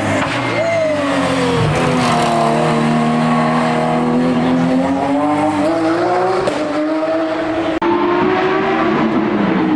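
Hillclimb race car engine running hard: its pitch falls at the start, climbs slowly through the middle, then drops sharply and climbs again twice near the end as the car changes gear.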